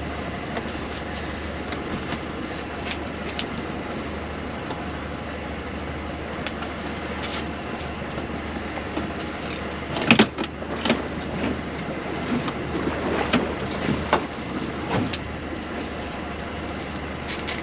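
Steady mechanical running noise aboard a small fishing boat while nets are hauled, with sharp knocks and clatters about ten seconds in and several more over the following few seconds.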